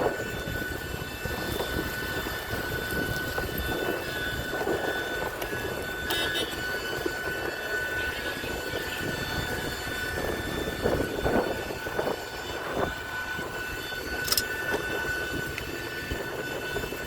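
Steady whine of jet aircraft turbines: a constant high tone over a rushing noise, with a brief sharp click near the end.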